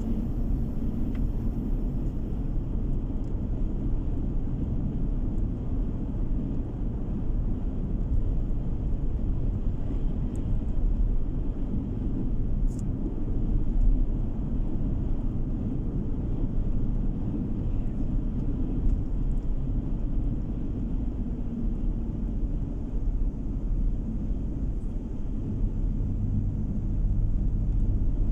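Steady low rumble of a car driving along at speed, tyre and engine noise heard from inside the cabin.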